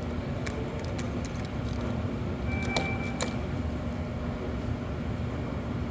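Steady rumble of a subway train running, with a constant low hum. A few light clicks and a short high tone come about two and a half seconds in.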